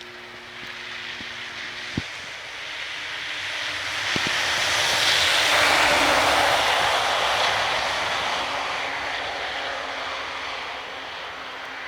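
A vehicle driving past: the noise of its engine and tyres swells to a peak about halfway through, then fades away. A sharp click sounds about two seconds in.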